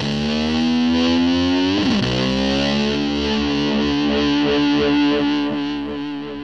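Distorted electric slide guitar closing out the hard rock track: its held notes swoop down and slide back up twice, like a motor scooter revving, then ring out as one sustained note that fades away near the end.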